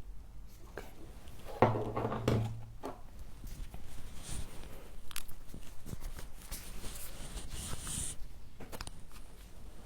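Humidifier frost being scraped and crunched, a scratchy hissing with small clicks through the middle seconds. It follows a brief low hum-like vocal sound a little under two seconds in.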